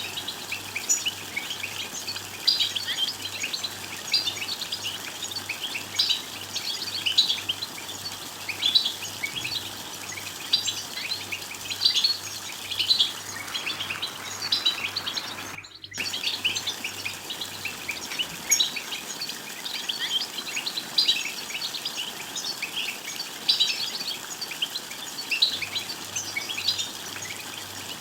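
European goldfinch twittering: a continuous run of quick, high chirps and trills, the call used to rouse male goldfinches to sing. The sound cuts out completely for a split second about halfway through.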